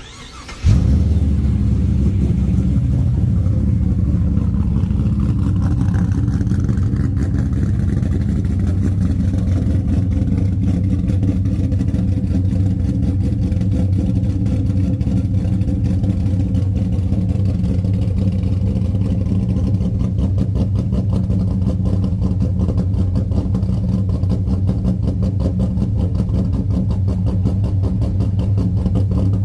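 Holden VY SS Commodore's LS1 5.7-litre V8 catching and firing up under a second in, then idling steadily through its exhaust.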